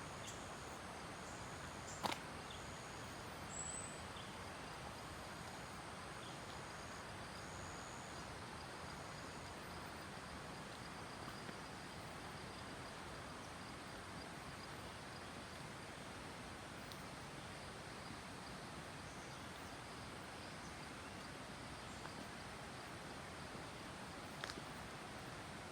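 Faint forest ambience: a steady, even hiss with faint high, evenly repeated insect chirps through the first several seconds. A sharp click comes about two seconds in and another near the end.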